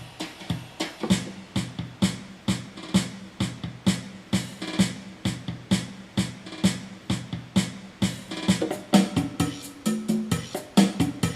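Yamaha PSR-350 keyboard's built-in auto-accompaniment playing a ballroom style: a drum-machine rhythm with bass and chord backing. The pattern grows busier about eight and a half seconds in.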